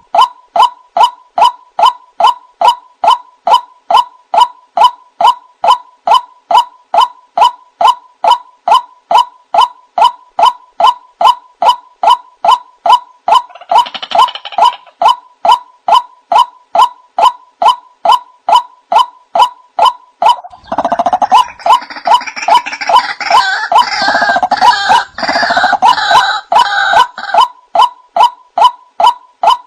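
White-breasted waterhen (ruak-ruak) calling: a steady run of clipped 'ruak' notes, about two a second. A fuller, louder tangle of overlapping calls joins in briefly in the middle and again for several seconds near the end.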